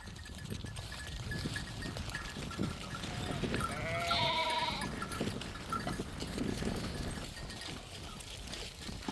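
Flock livestock bleating: one wavering bleat about three and a half seconds in, over a steady low background of the flock.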